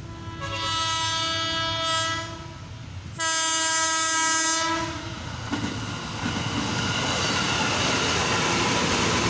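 KRL Commuter Line electric train sounding two long horn blasts of about two seconds each as it approaches, then running past close by with a steady rumble and clatter of wheels on the rails.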